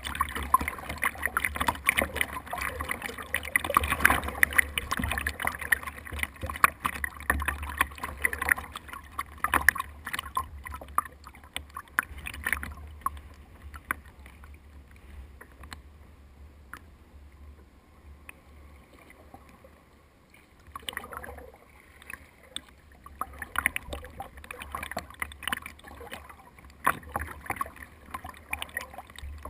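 Water splashing and slapping irregularly against a small boat in waves, easing off for several seconds in the middle, over a steady low rumble.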